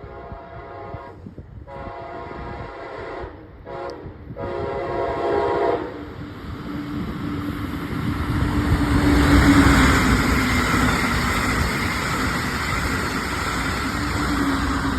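Brightline passenger train sounding its horn in several blasts, one of them very short, as it nears the road crossing. The last blast ends about six seconds in, and the train then passes close by with a loud rushing rumble of wheels on rail that peaks a few seconds later.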